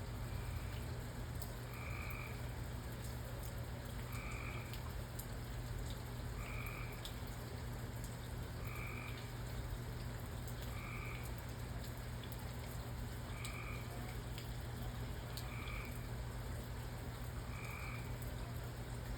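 A frog calling at a regular pace, one short call about every two seconds, over a steady hiss of rain with scattered sharp drip ticks and a steady low hum underneath.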